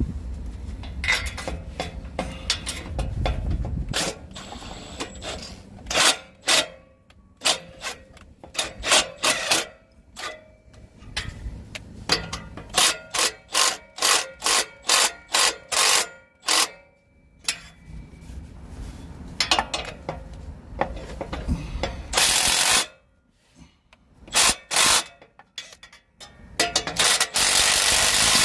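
Hand tools tightening exhaust flange bolts: a ratchet wrench clicking through short runs of quick strokes, with metal rubbing and scraping between them. Two longer, louder harsh bursts come near the end.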